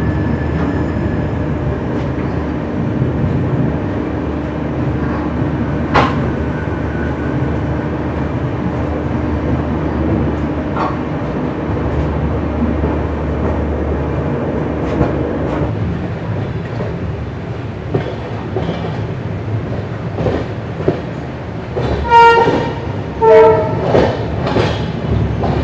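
Indian Railways express train running out of a station, heard from an open coach door: a steady rumble of coaches and wheels on the rails, with a sharp metallic clank about six seconds in and wheel clicks over rail joints. Near the end come two short train-horn blasts.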